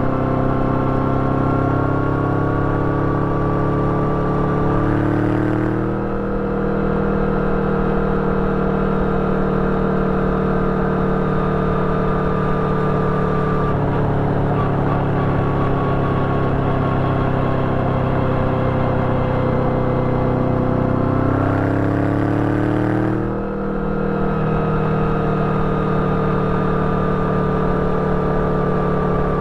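Yamaha VMAX 1700's V4 engine running through an Akrapovic exhaust with a dB-killer, pulling steadily on the road with air rushing past. Twice, about six seconds in and again near 23 seconds, the revs rise and then drop sharply with a short dip in loudness, as at a gear change.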